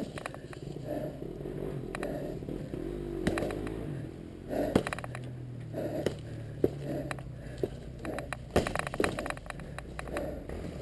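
Dirt bike engine idling at low revs, with scattered knocks and scrapes.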